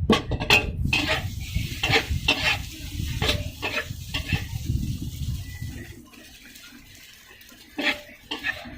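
Metal spatula clanking and scraping in a wok over a gas burner, with food frying. The clanks come in quick succession for about five seconds, then ease off into a quieter stretch with two more clanks near the end.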